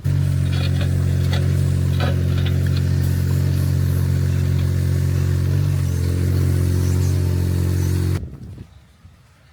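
Heavy machinery's diesel engine running steadily at a constant speed, with a few light knocks, then cutting off suddenly about eight seconds in.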